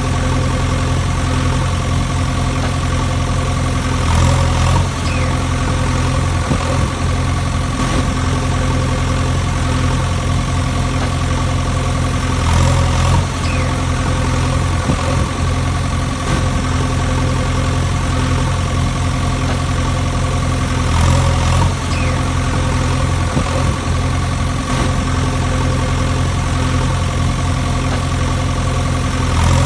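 Steady idling tractor engine hum with a low, even drone and a regular swell about every eight to nine seconds.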